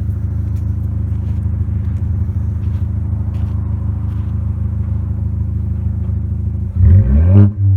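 Turbocharged 1.5-litre EcoBoost inline-four of a 2018 Ford Escape, fitted with a free-flow intake and hi-flow exhaust, running steadily at idle, then revving up sharply near the end, its pitch rising and falling.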